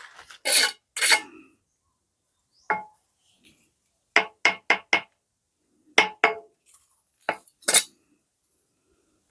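A series of sharp clinks and knocks, about a dozen in irregular clusters, several with a short ringing tone like hard objects or metal striking each other.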